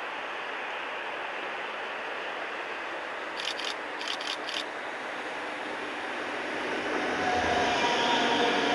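A train approaching along the platform: a steady background rush gives way, about seven seconds in, to a growing rail rumble with several steady whining tones from the train's motors or brakes. A few brief high squeaks come midway.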